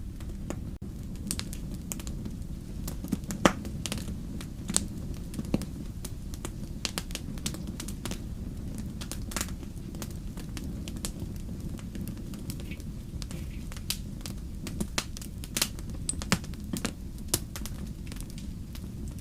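Wood fire crackling: irregular sharp pops and snaps over a steady low rumble, with one louder pop about three and a half seconds in.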